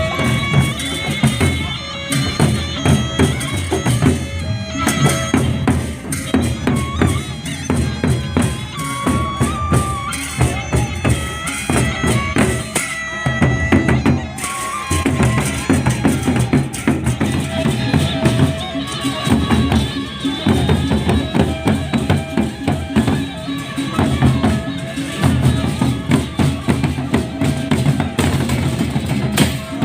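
Sasak gendang beleq ensemble playing: drums beating a busy rhythm, with a held melody line that shifts in pitch above them.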